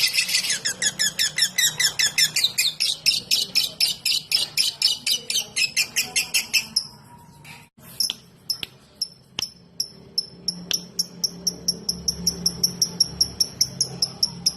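Lovebird 'ngetik' call: a fast, even run of sharp high ticking chirps, about seven or eight a second, that stops about seven seconds in. After a few sharp clicks, a fainter, slower series of short high chirps follows, about three or four a second.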